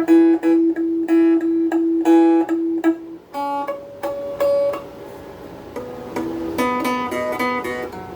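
Donner DST-80 strat-style electric guitar on its middle pickup, played clean through its small practice amp: one note picked about eight times in a row, then quieter held notes and short single-note phrases. The guitar sounds a little off in tune, and the player is unsure whether its intonation was ever set.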